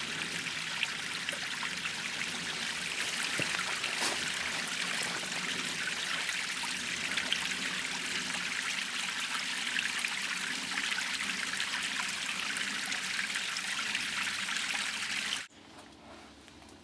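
Small stream trickling and babbling steadily over rocks. It cuts off abruptly near the end, leaving a much quieter outdoor background.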